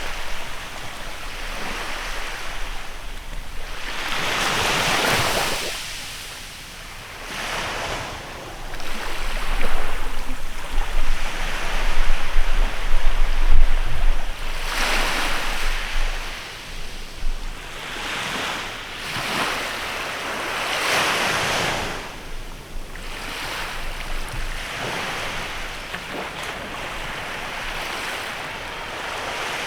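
Sea waves breaking and washing up a beach in a bay, swelling and fading every few seconds. Low wind rumble on the microphone.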